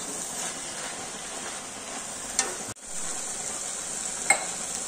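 Garlic chives and diced potato sizzling in a black wok as the gravy cooks dry, with a metal spatula stirring and scraping the pan and two short sharp clinks, one about halfway and one near the end.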